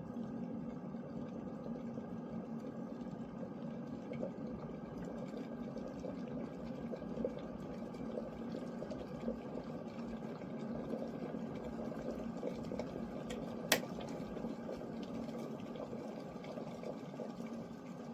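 Glass electric kettle with water bubbling and rumbling at or near the boil, a steady churning sound with a faint hum. A single sharp click sounds about three-quarters of the way through.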